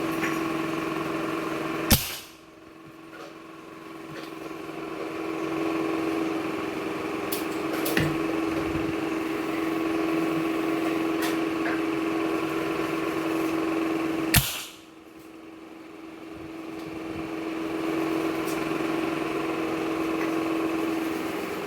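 Homemade gas-powered PVC gun firing two sharp shots about twelve seconds apart, with a few lighter clicks between them. A steady motor-like hum runs underneath; it drops away right after each shot and builds back over a few seconds.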